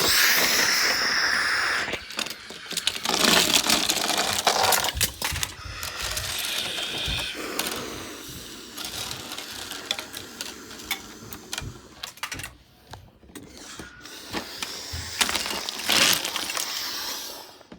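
Clattering and rattling of many small hard objects knocking and falling, with several loud rushing, hissing swells.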